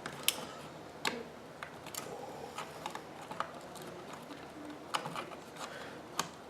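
Irregular small clicks and taps of a jeweler's screwdriver working on the plastic parts of a DJI Phantom quadcopter, about six of them spread out.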